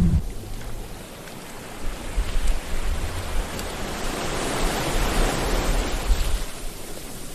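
Sea waves: a wave swells in about two seconds in, breaks with a wash of surf that peaks around the middle, and recedes near the end.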